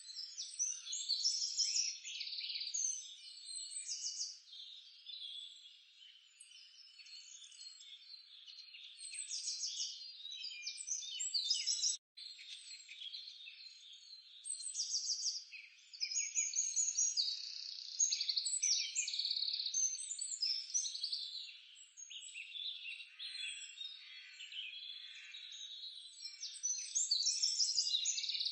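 A chorus of chirping birds with pulsed, trilling calls, rising and falling in loudness throughout.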